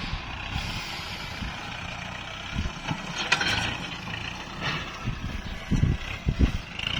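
Kubota MU4902 tractor's diesel engine running steadily under load while it plows through a paddy-field bund in hard soil. There are two sharper clatters about three and four and a half seconds in.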